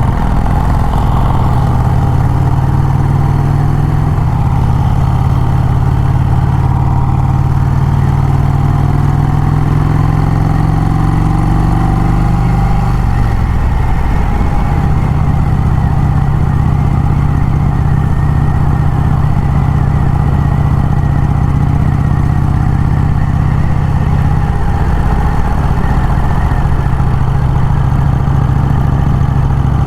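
1951 Vincent Rapide's V-twin motorcycle engine running on the road, heard from the bike. Its pitch climbs slowly for about ten seconds, drops about halfway through, then holds steady again.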